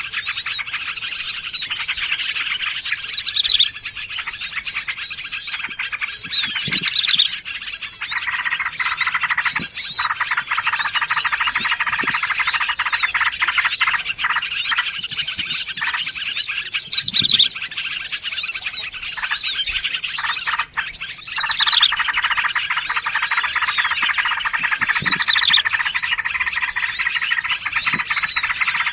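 Bird-lure recording of several small songbirds calling together: dense, rapid chirps and trills over a steady chorus. The mix of calls shifts a few times, briefly thinning out now and then.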